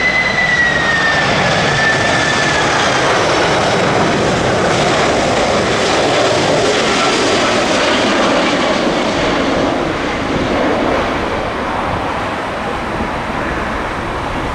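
Jet airliner passing on a landing approach: a high engine whine that drops slightly in pitch as it goes by, over a broad engine roar that slowly fades away.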